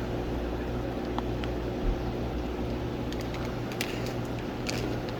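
Steady low electrical hum and airy hiss from running equipment, with a couple of faint clicks near the end.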